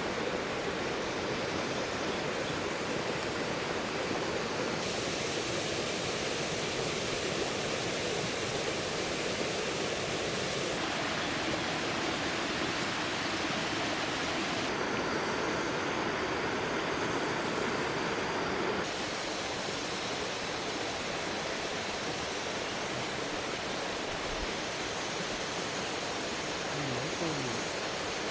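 Steady rushing noise with no distinct events. Its tone shifts abruptly about four times along the way.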